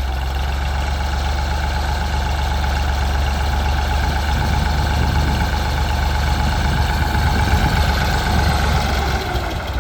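Tractor engine working under load while dragging a box blade, labouring and starting to bog down, then easing off near the end.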